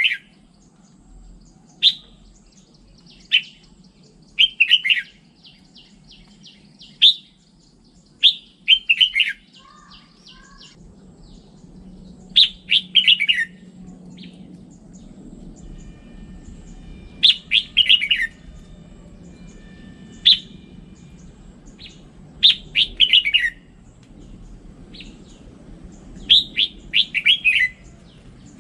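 Red-whiskered bulbul singing: short phrases of quick notes that fall in pitch, repeated every one to four seconds, with faint softer twittering between the phrases.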